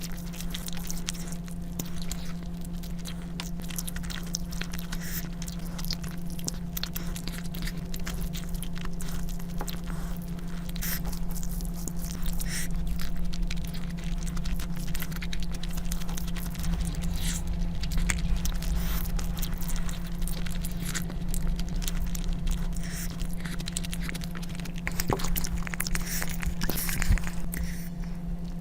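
Close-miked chewing, biting and wet mouth clicks of someone eating rice and curry, in quick irregular smacks, over a steady low hum.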